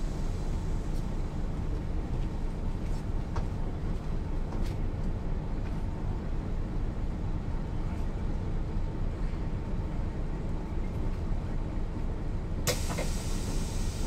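Mercedes-Benz O 407 bus with manual gearbox running steadily, its six-cylinder diesel engine and road noise heard together, with light ticks and rattles. A sharp clack comes about a second before the end.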